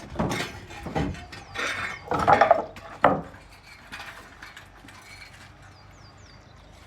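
Metal parts and tools being handled: a run of loud clanks and rattles over the first three seconds, then quieter knocking.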